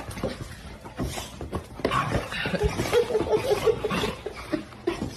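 A person laughing in a string of short, quick bursts around the middle, with scattered knocks and clatter.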